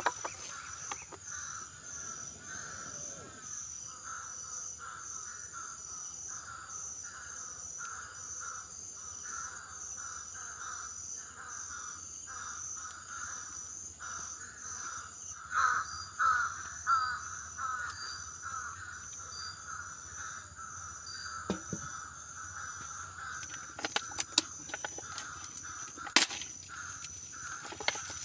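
Forest night-time ambience: insects droning steadily on a high note while an animal calls over and over, about two calls a second, louder for a moment midway. A few sharp clicks come near the end.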